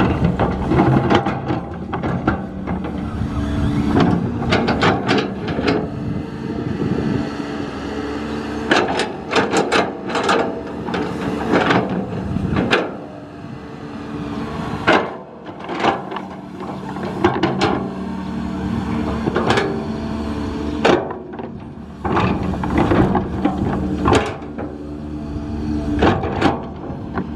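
Heavy construction machinery running with a steady engine hum, broken by many irregular knocks and clanks.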